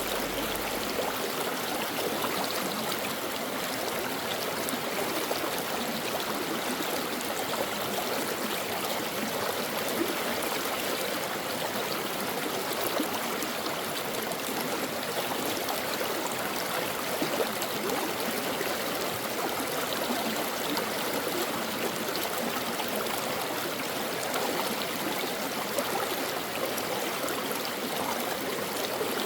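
Brook water flowing steadily, a continuous even rush and trickle of water that does not change.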